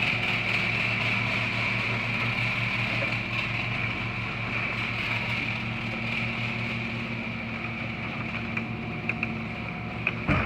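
Genie screw-drive garage door opener running, its motor turning the screw drive in a steady hum and whine as the door travels. It stops with a clunk near the end.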